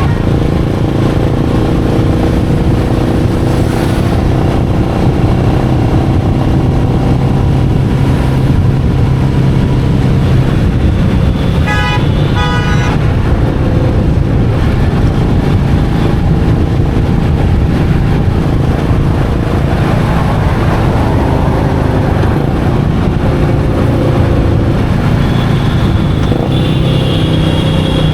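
Royal Enfield Meteor 350's single-cylinder engine running steadily while riding in traffic. About halfway through, a horn sounds in a quick run of short beeps.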